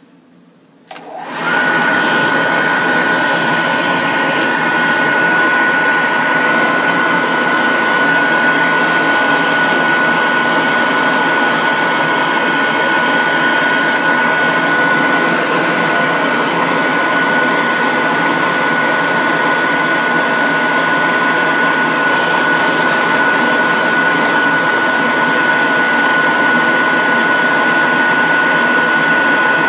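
An electric blow dryer switches on about a second in and runs steadily, a loud rush of air with a constant high motor whine.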